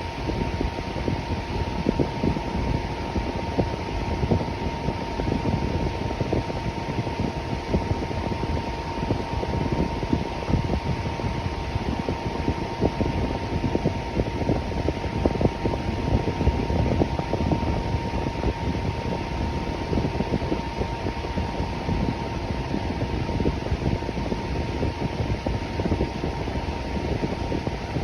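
Electric fan running steadily, a constant rushing whoosh of moving air with a faint steady hum just under 1 kHz.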